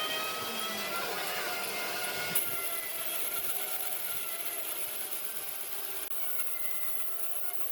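A woodworking power machine running and cutting into wood, with faintly wavering tones over a steady hiss and a brief click about two and a half seconds in.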